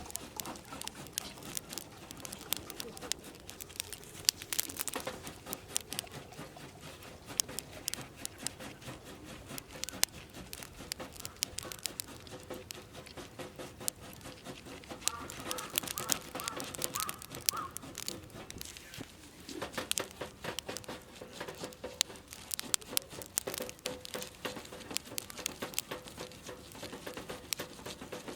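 Wood campfire crackling, with a steady run of irregular sharp pops and snaps.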